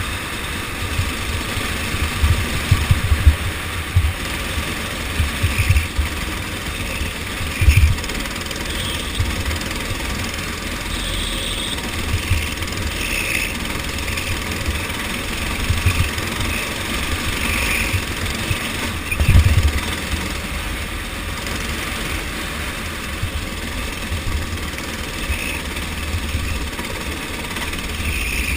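Go-kart engine running during a race, a steady mechanical drone with irregular low thumps, the loudest about eight seconds in and again near twenty seconds.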